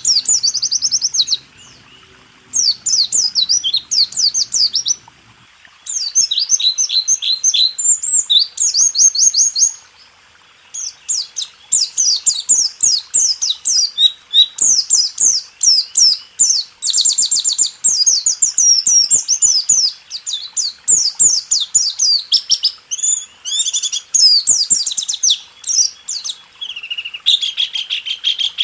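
White-eye (pleci) singing a fast, high-pitched rolling trill song of the 'rol tembak' type, in several phrases with short pauses in the first ten seconds, then almost without a break.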